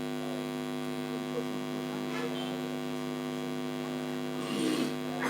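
Steady electrical mains hum, a stack of even steady tones, with a couple of faint short chirps about two seconds in and near the end.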